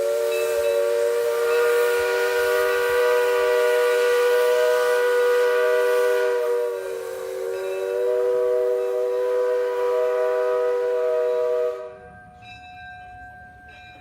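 Steam locomotive's chime whistle blown in one long blast, several notes sounding together as a chord. The pitch sags briefly about halfway through, then recovers. The whistle cuts off sharply near the end.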